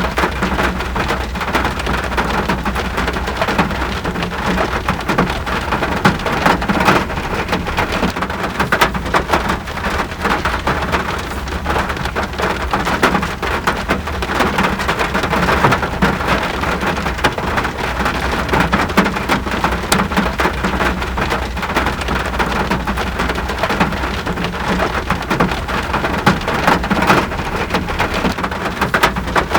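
Steady rainfall, dense with individual drop hits on a surface, at an even level throughout, with a steady low rumble underneath.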